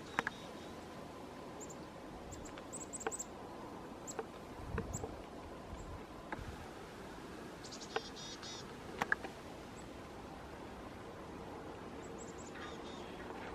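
Small birds calling in bursts of short, high chirps, three times, over faint outdoor hiss, with a few scattered sharp clicks.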